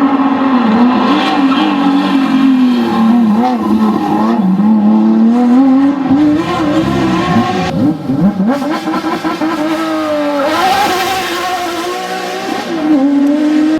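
Porsche 911 GT3 RS rally car's flat-six engine running hard, its pitch rising and falling as the driver works the throttle, with a drop and ragged crackle about six to eight seconds in and a steep climb in revs just after ten seconds.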